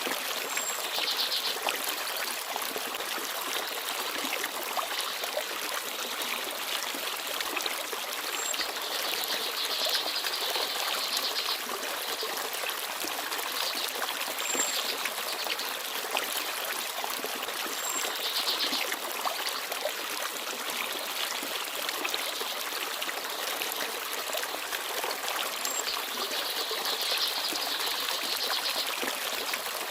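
Small forest stream babbling and trickling over stones, a steady rush of water.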